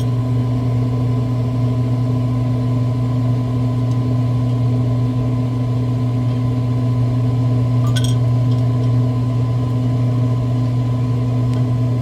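Pit Boss vertical pellet smoker's fan and auger motor humming steadily while the prime button is held, turning pellets down into the fire pot. A few light clicks about eight seconds in.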